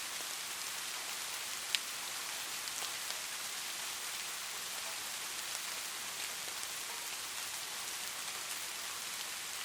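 Light rain falling steadily as an even hiss, with scattered drops ticking on a surface and one sharper drop tick about two seconds in.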